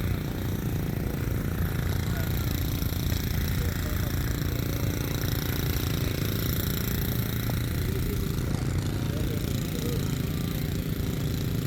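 An engine running steadily at idle, a low rapid chugging, with faint voices.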